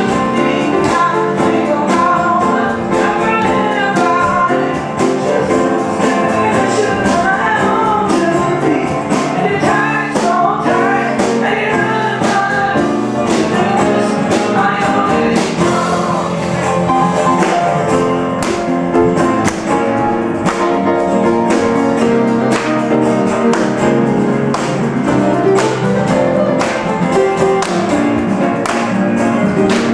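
A live band playing a song: keyboard and percussion, with regular sharp percussion hits and a wavering sung melody line that is strongest in the first half.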